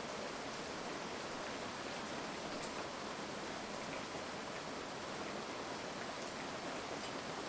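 Steady heavy rain, an even hiss with faint individual drops ticking through it.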